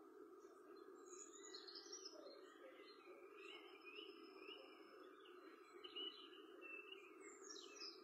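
Faint birdsong: small birds chirping and giving short sliding whistles, with a quick falling call near the end, over a steady background hum.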